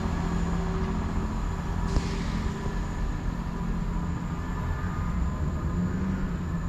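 A train running, with a steady low rumble and an engine hum.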